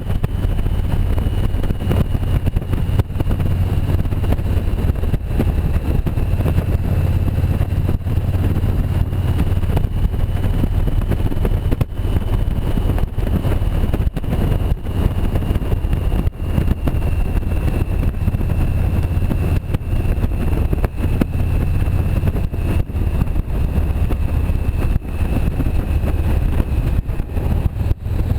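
Motorcycle engine running steadily at road speed, with wind buffeting the microphone and a thin high whine that drifts slowly down in pitch.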